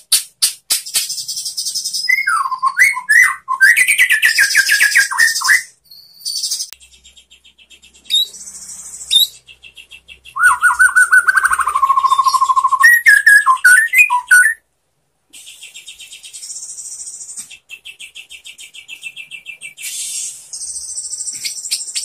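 White-rumped shama singing. Two bursts of loud, varied whistled phrases, about two seconds in and again near the middle, come between long runs of very fast, high chattering trills and rattles.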